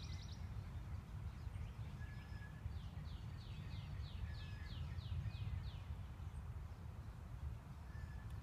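Outdoor ambience: a steady low rumble, with a small bird in the background singing a run of about ten quick, high, downward-sliding notes in the middle.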